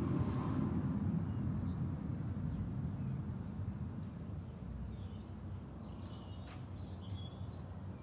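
Faint, high bird chirps and squeaks, several of them short gliding notes, over a steady low background rumble that slowly fades.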